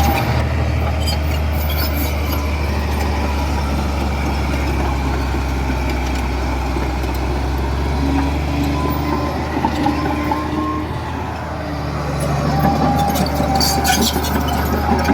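Komatsu D31P bulldozer's diesel engine running steadily, with a brief whine about two-thirds of the way in and another near the end, and some clanks near the start and end.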